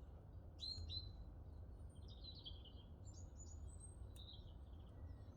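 Small songbirds chirping and twittering in short phrases over a steady low rumble, with a faint click about four seconds in.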